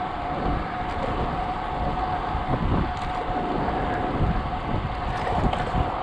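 Strong wind buffeting the microphone of a moving cyclist: a dense, gusting low rumble, with a steady thin tone held throughout.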